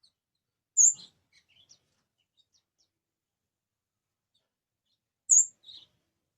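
Kamade songbird calling: two sharp, very high two-note calls, one about a second in and one near the end, with faint short chirps between them.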